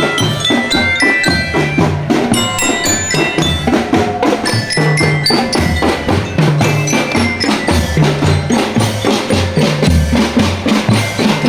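Marching drum band playing: a bright melody of short ringing notes on glockenspiel-type bells over a steady beat of bass and snare drums.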